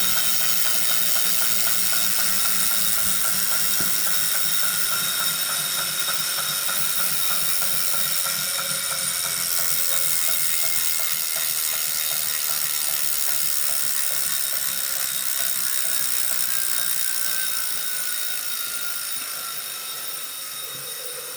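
Wahoo Kickr Core smart trainer running, its flywheel giving a steady whine with a ratchet-like clicking, the clicking/knocking fault reported on this brand-new unit. Toward the end the whine drops in pitch and the sound fades as the flywheel slows.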